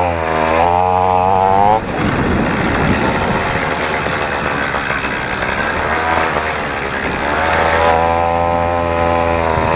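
Motorized BMX's small engine with a homemade muffler, choke fully open, revving up with rising pitch in the first couple of seconds, running rougher and noisier through the middle, then holding steady revs near the end.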